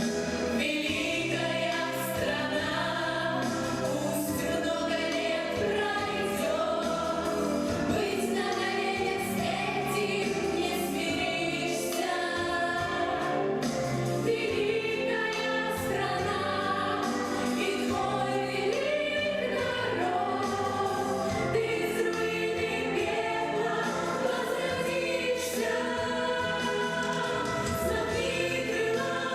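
Children's choir singing a song in chorus over an instrumental backing with a steady beat.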